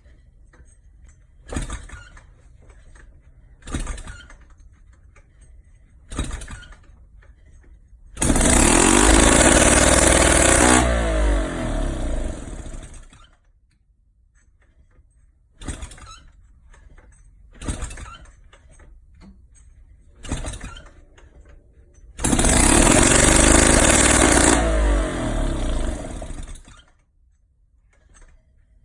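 Velosolex Micron's small two-stroke single-cylinder moped engine being started after its condenser was swapped for an electronic one: three short bursts a couple of seconds apart, then it catches and runs loudly for a few seconds before winding down with falling pitch. The whole sequence happens twice.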